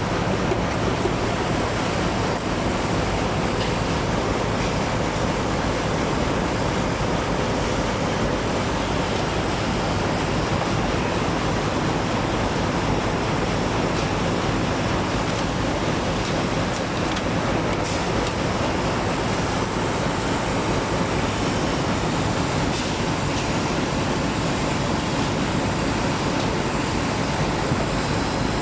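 Automatic pin-arranging machine running: a steady mechanical noise at an even level, with a faint steady hum under it.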